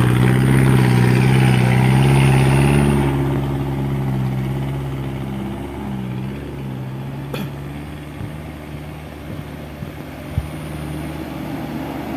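Heavy sand truck's diesel engine running hard under load on a steep climb, with a steady deep note that is loudest for the first three seconds and then gradually fades. A sharp click comes about seven seconds in and a short knock near ten seconds.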